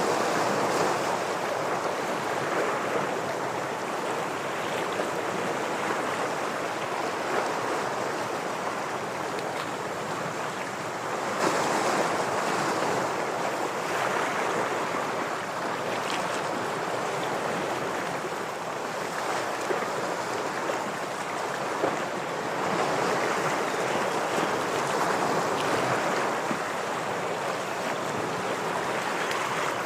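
Ocean waves breaking and washing against shoreline rocks: a steady rush of surf that swells louder every ten seconds or so as each wave comes in.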